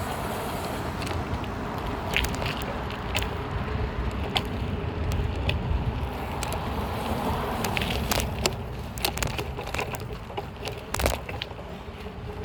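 BMX bike being ridden on pavement: steady low wind and tyre rumble, with frequent irregular clicks and rattles.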